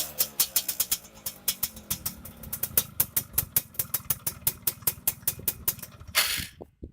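Motorcycle exhaust idling through a hand-gutted ('bobok') stock muffler, each exhaust pulse a sharp pop, about six a second. Near the end there is a short burst of noise, and then it cuts off.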